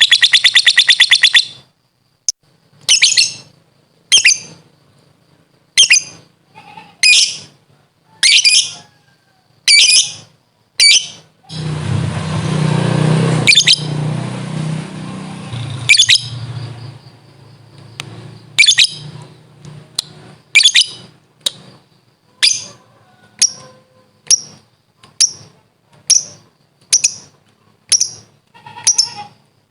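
A lovebird's rapid chattering trill breaks off about a second and a half in. The bird then gives sharp, high single chirps about once a second. For a few seconds in the middle, a noise with a low hum sounds along with the chirps.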